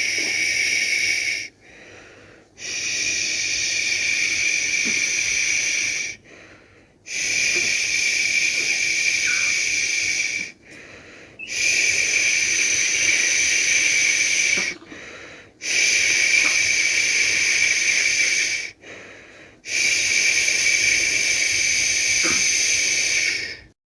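A person shushing a baby to sleep: long, steady "shhh" sounds of about three to four seconds each, with a short breath pause of about a second between them, six in a row.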